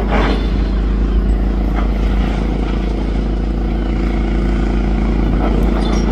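Demolition excavator's diesel engine running steadily under load, with brief clatter of rubble right at the start and again about two seconds in.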